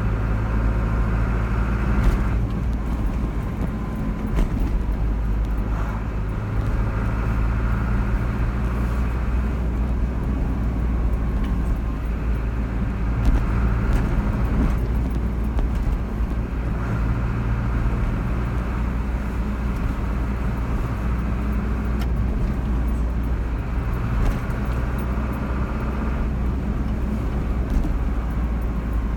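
A car driving along a road: a steady low engine and road rumble, with a higher tyre noise that swells and fades every few seconds.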